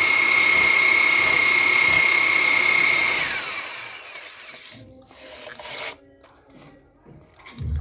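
A handheld electric power tool running steadily at full speed with a high whine, then released about three seconds in and spinning down, its pitch falling as it stops; a few faint knocks follow.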